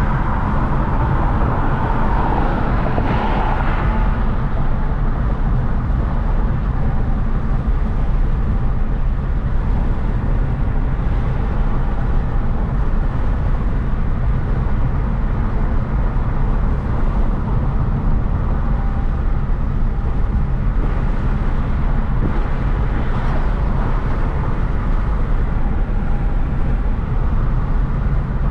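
Hyundai Genesis Coupe 3.8's V6 engine and tyre noise while driving, a steady low rumble, with a brief louder, brighter sound about two to four seconds in.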